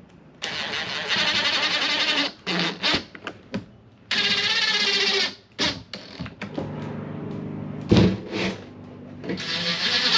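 A handheld power tool's motor running in several short bursts of one to two seconds, its pitch wavering up and down, with a steadier motor tone between bursts.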